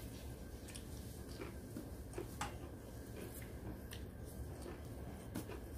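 Close-up eating sounds: scattered small wet clicks and smacks of chewing, with a steady low hum underneath.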